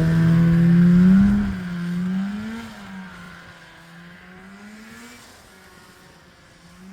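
Snowmobile engine running under throttle. It is loudest at the start, rising in pitch about a second in, then wavering up and down in pitch as it fades away into the distance.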